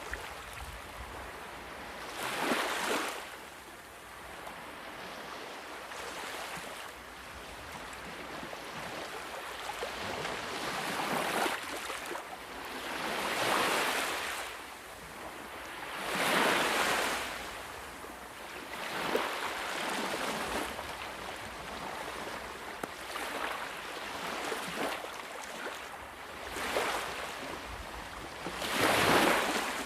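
Ocean waves breaking and washing up the shore, each surge swelling and fading every few seconds, with the loudest wave near the end.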